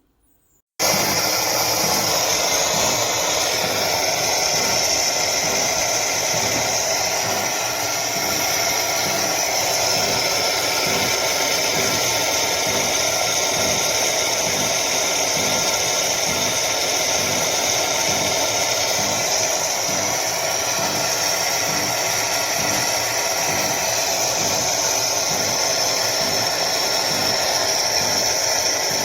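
Cecotec Power Instant-ccino semi-automatic espresso machine running: it starts abruptly about a second in and keeps up a loud, steady hiss over a pulsing hum.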